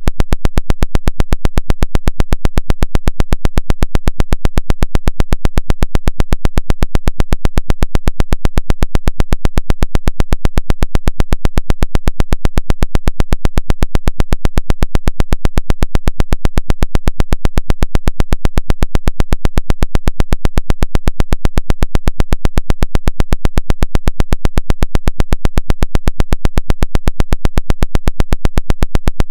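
A pulsed 'woodpecker' signal: a fast, perfectly even train of loud noisy pulses, like a rapid tapping, repeating without a break.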